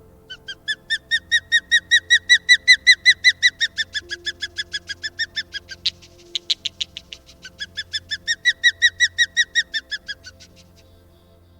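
Osprey calling: a long series of short, high whistled chirps, about four a second, that swells and then fades. After a few sharper notes comes a second, shorter run of chirps.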